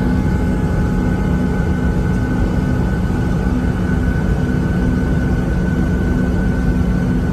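Steady jet engine and cabin noise heard from inside a Boeing 737-700, its CFM56-7B engines running: a loud low rumble with a constant hum.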